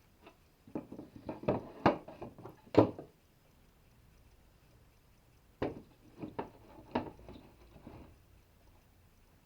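Irregular knocks and clatters of wood being handled and set down, in two bursts of a few seconds each.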